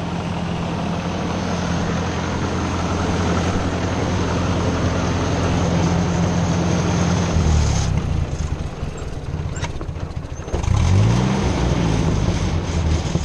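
An engine running steadily, its speed shifting about seven seconds in and again, with a brief dip and a swing up and down, near eleven seconds, as the idle is set.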